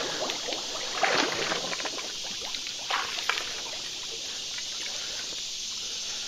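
Creek water sloshing and splashing as a person wades in, with a few louder splashes about one second and three seconds in.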